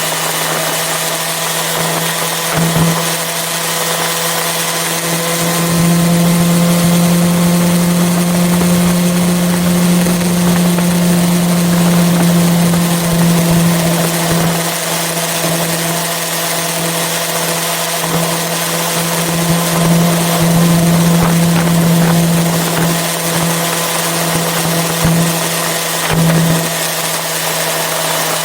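Yamaha FZ6R's inline-four engine running at a steady speed while riding, its note holding one even pitch, over a continuous hiss of wind and road noise. The engine note grows stronger about five seconds in and dips briefly a few times near the end.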